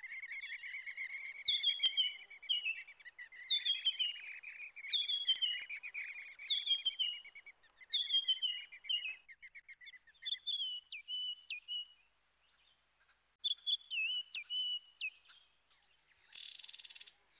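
Birds calling: a falling chirp repeated about every second and a half over a steady trill, then short, sharp high notes broken by a brief pause. A short hiss comes near the end.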